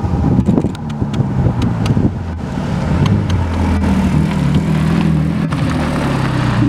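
Porsche Boxster's flat-six engine running at a steady, moderate pace as the car drives up and turns past.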